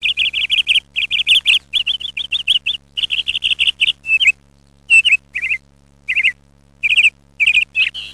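A bird chirping in quick runs of rapid high notes broken by short pauses, over a faint steady low hum.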